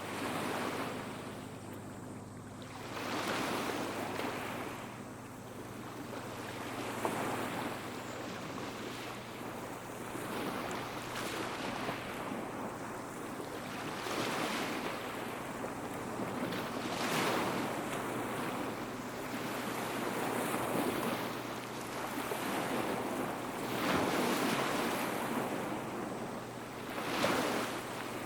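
Small sea waves washing up a beach, each wash swelling and easing back every three to four seconds.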